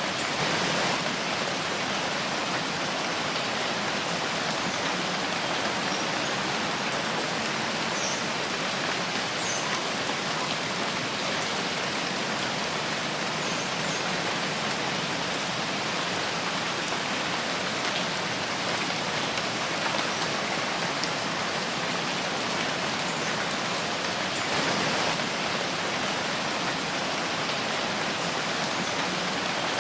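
Steady rain falling in a forest, an even hiss of many drops that keeps up without a break.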